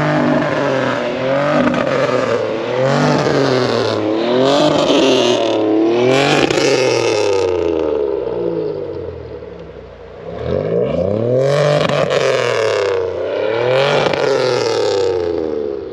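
Pontiac Bonneville's loud exhaust as the engine is revved again and again, each rev climbing and falling back, with a short lull about ten seconds in before more revs; the sound is echoing.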